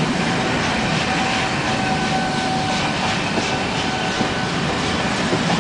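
Passenger train hauled by the LNER Peppercorn A1 4-6-2 steam locomotive No. 60163 Tornado pulling out of a station, a steady rumble and rattle of the train running on the track.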